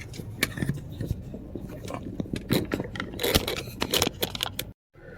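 Irregular scraping and rubbing with many sharp clicks, cutting off abruptly near the end.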